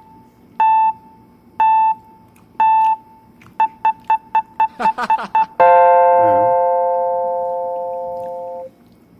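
Electronic beeps, one a second and then quickening to about four a second, ending in a long sustained electronic chord that fades over about three seconds and cuts off. A brief sweeping sound comes just before the final chord.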